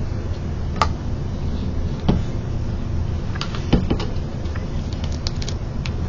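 Steady low hum with a few light clicks and taps, about one a second early on and a few fainter ones later.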